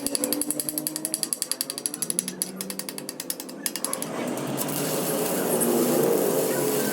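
A power tool hammering rapidly, with many metallic strikes a second, stopping about four seconds in; then a louder, steady workshop noise takes over.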